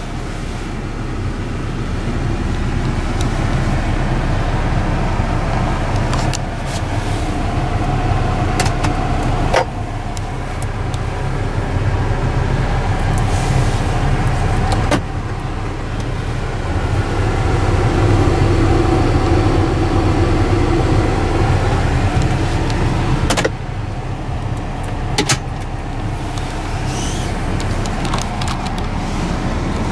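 A 2013 Volkswagen Beetle's 2.5-litre five-cylinder engine idling, a steady low hum inside the cabin. Several sharp clicks and knocks come over it from the interior being handled.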